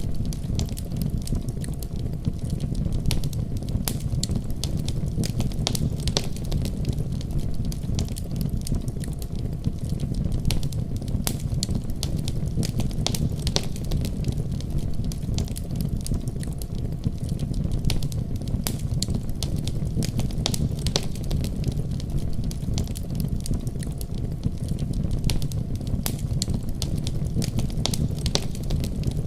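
Wood fire burning in a fireplace, crackling steadily: a low, even rumble of flames with frequent sharp, irregular pops and snaps.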